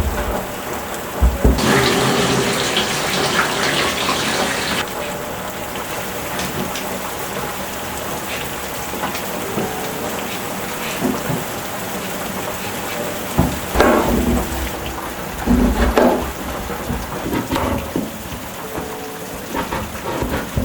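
Steady rain falling. A louder hiss lasts a few seconds near the start, and a few low thuds come about two-thirds of the way through.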